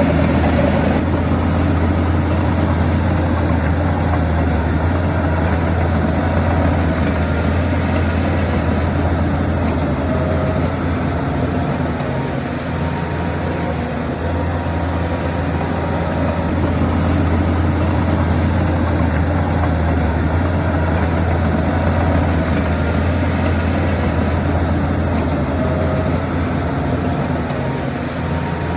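Heavy diesel earthmoving machinery running steadily, a deep engine hum with mechanical noise over it and no sharp knocks or changes.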